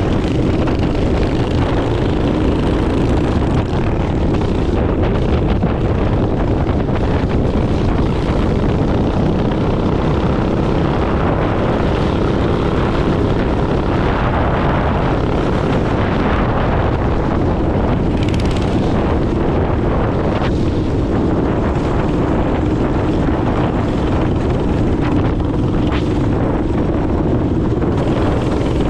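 Minibike engine running steadily during a ride, with wind buffeting the microphone.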